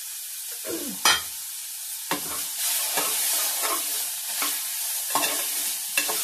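Onion, tomato and spices sizzling in oil in a pressure cooker while a spoon stirs in freshly added masoor dal, scraping the pot about every three-quarters of a second. A single sharp clank about a second in.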